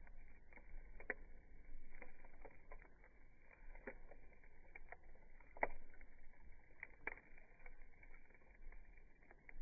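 Campfire crackling: irregular pops and snaps from the burning wood over a low hiss, the loudest pop about five and a half seconds in.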